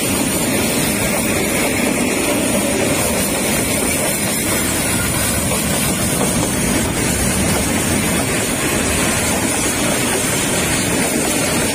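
Freight train wagons (boxcars and container flatcars) rolling past at close range: a loud, steady noise of steel wheels running on the rails.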